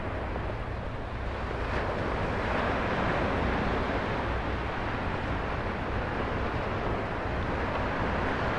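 Ocean surf: a steady rush of breaking waves that swells about two seconds in, with wind buffeting the microphone.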